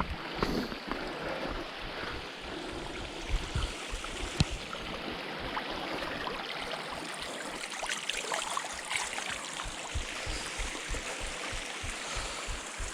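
Steady rush of flowing stream water, with footsteps thudding at a walking pace and a few small clicks of stones and twigs underfoot.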